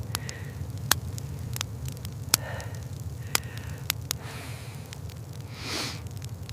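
Crackling fire: sharp, irregular pops over a steady low rumble, with a brief rushing swell near the end.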